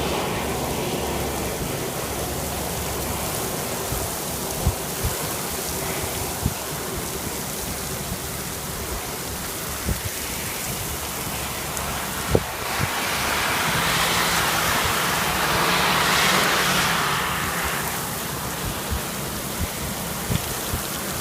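Heavy rain falling with a steady hiss and scattered sharp taps of drops striking close by. The hiss swells louder for a few seconds past the middle, then eases.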